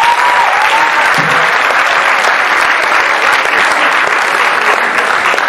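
Audience applauding loudly and steadily in a hall.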